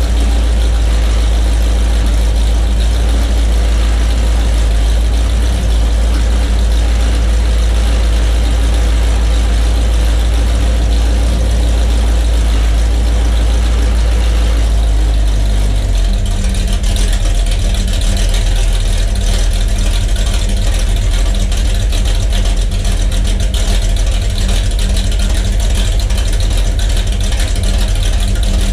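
1969 Chevrolet Chevelle's engine idling, a strong, steady low rumble from the exhaust. About halfway through, the rumble becomes choppier and more pulsing.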